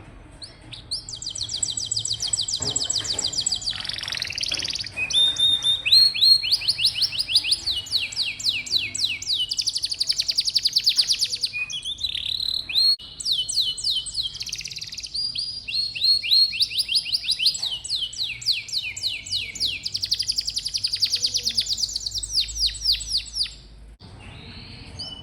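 Domestic canary singing a long song of fast trills: phrase after phrase of rapidly repeated high notes, each trill giving way to a different one. It breaks off briefly near the end.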